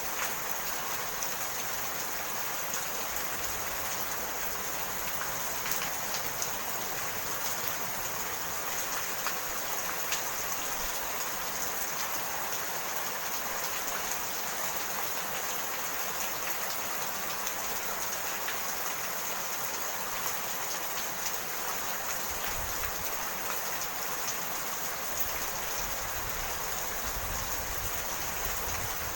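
Steady rain falling, an even hiss with scattered drop ticks. A faint low rumble comes in twice in the second half.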